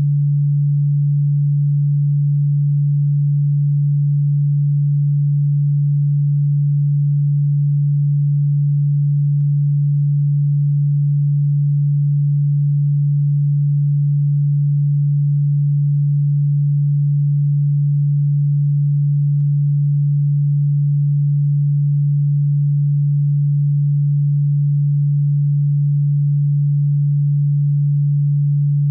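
A single steady, low-pitched electronic pure tone, held without change, played as a supposed cockroach-repellent sound; it sits low in the audible range, not ultrasonic.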